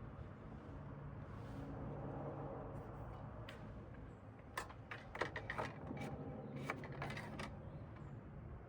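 Light clicks and knocks of things being handled during work on a lawn tractor, a quick run of them about halfway through, over a low steady hum.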